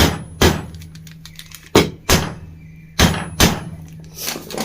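Hammer tapping a ceiling fan's cover around its rim, in pairs of sharp knocks about half a second apart, with lighter taps near the end, to seat the cover and its bearing evenly on the fan body.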